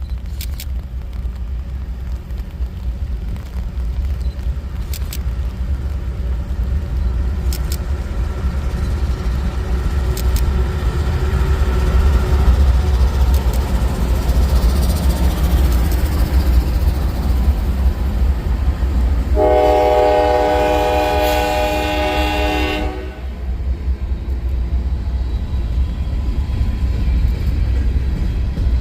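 Freight train's diesel locomotives rumbling as they come closer, growing louder. A multi-note air horn sounds once for about three seconds, about two-thirds of the way through, and starts again right at the end.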